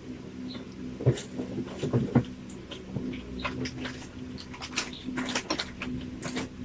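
Spoon clicking and scraping against a bowl while the last of a chocolate rice porridge is eaten, with small mouth and eating sounds. Irregular light clicks run over a steady low hum.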